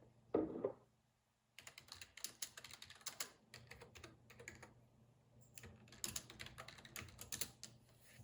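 Typing on a computer keyboard in two bursts of quick key clicks, with a pause between them. The bursts are preceded about half a second in by a single dull thump, the loudest sound here. A faint steady low hum runs underneath.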